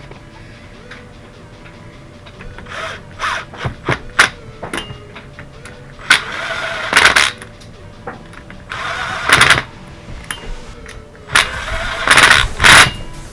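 A power tool runs in three short bursts of about a second each, with lighter clicks and knocks between them as parts are handled.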